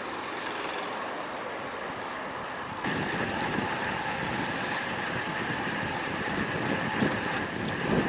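Wind rushing over a bike-mounted action camera's microphone with road-bike tyre noise, riding into a strong headwind. About three seconds in it gets louder and a faint steady whine comes in.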